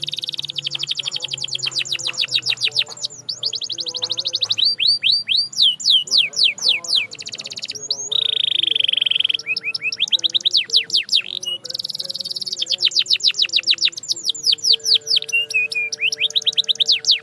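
Domestic canary singing: phrases of fast repeated downward-sweeping notes in quick rolls, one after another, with a short held buzzing note about eight seconds in.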